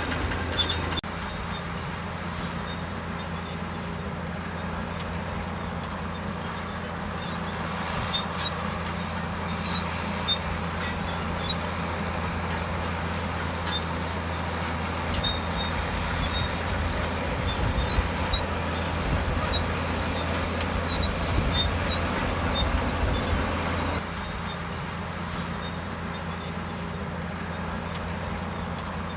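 Komatsu D65EX bulldozer's diesel engine running steadily under load, with scattered light clicks over the drone. It grows louder through the middle and drops abruptly near the end.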